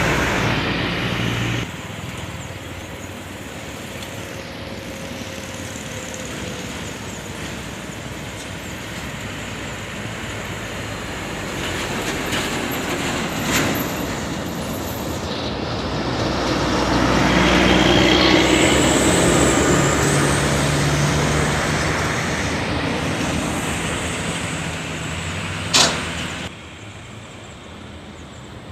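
Road traffic with heavy vehicles running past. One engine grows louder and passes a little past halfway through, and a short sharp burst comes near the end.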